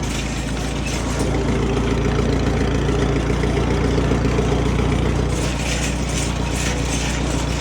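Massey Harris 81 tractor engine running steadily at low speed while the tractor is driven slowly in gear. A patch of higher-pitched noise comes in about five seconds in.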